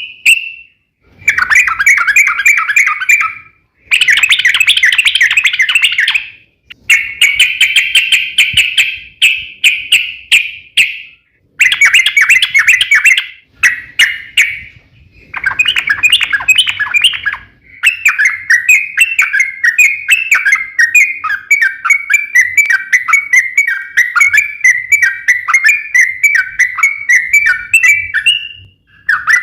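Yellow-vented bulbul (trucukan) singing its long, rapid chattering song in loud bursts of a few seconds each, with short pauses between them. The last burst runs on for about ten seconds.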